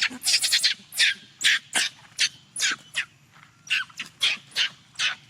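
Infant macaque crying: short shrill screams repeated about two or three times a second, the distress cries of a baby separated from its mother.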